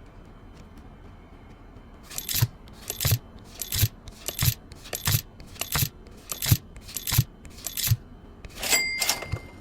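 Pokémon trading cards being flipped through one at a time, about nine short card slaps at an even pace of roughly one every 0.7 s, then a longer scrape of cards sliding near the end.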